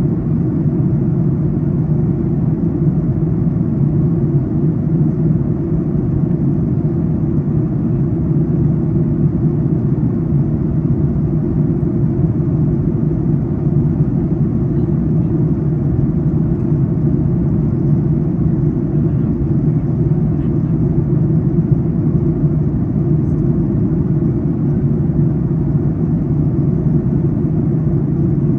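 Steady low drone of a Boeing 737 MAX 8's cabin, the engines and airflow heard from an economy seat during descent. The noise stays even, with its weight in the low range.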